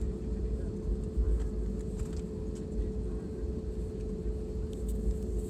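Jet airliner's engines running, heard inside the passenger cabin while the plane is on the ground before takeoff: a steady low rumble with a constant hum.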